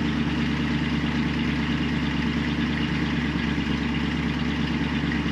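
Classic V8 car engine idling steadily.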